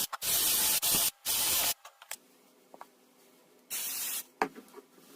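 Aerosol spray can giving short hissing bursts: three quick squirts in the first couple of seconds, another about four seconds in, then a single sharp click.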